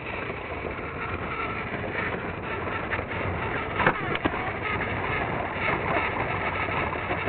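Battery-powered Trackmaster toy train running steadily on plastic track, with a few sharp clicks about four seconds in.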